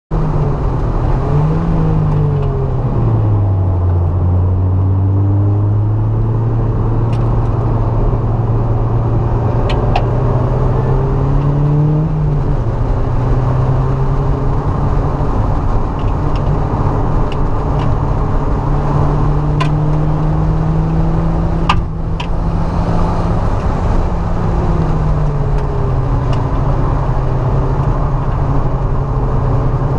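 Mazda MX-5's four-cylinder engine heard from inside the cabin at racing speed, over wind and road noise. Its note rises and drops sharply a few times, near the start and around the middle, as the car accelerates, lifts and changes gear, and holds steady for long stretches in between.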